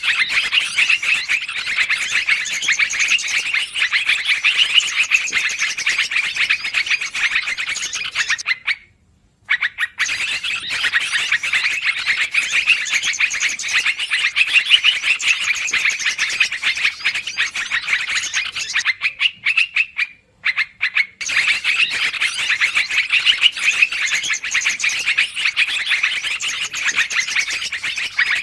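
Yellow-vented bulbul (trucukan) lure call: a fast, continuous, agitated chatter. It breaks off briefly twice, about nine and twenty seconds in.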